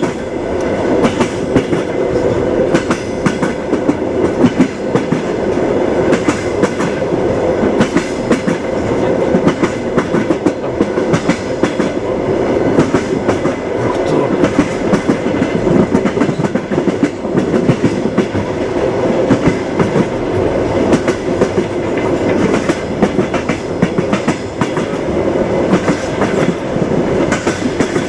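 Moving train's wheels clacking over rail joints, a run of sharp clicks over a steady rumble.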